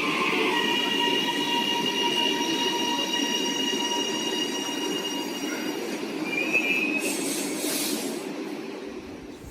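Melbourne suburban electric train running, its wheels squealing in several steady high tones over the rumble of the running gear. A short hiss comes about seven seconds in, and the sound fades toward the end.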